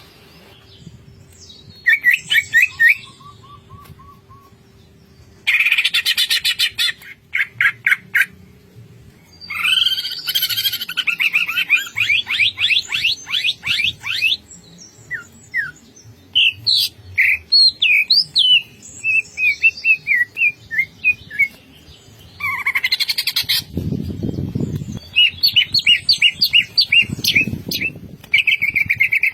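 Green leafbird (cucak ijo) singing in full voice: bursts of rapid, chattering repeated notes with short pauses, and a run of slurred whistled notes midway. Low thuds come near the end.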